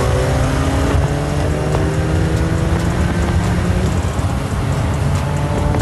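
High-powered car engines under full acceleration, the engine note climbing slowly and steadily in pitch over a loud rush of noise.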